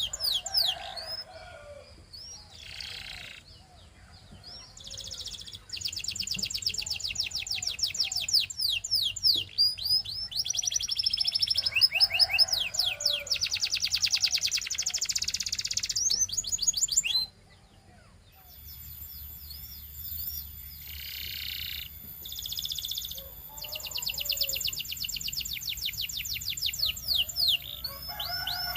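Belgian canary singing: long runs of fast rolling trills and rapid whistled sweeps, one phrase after another. The song cuts off abruptly about 17 seconds in and starts again a second or so later.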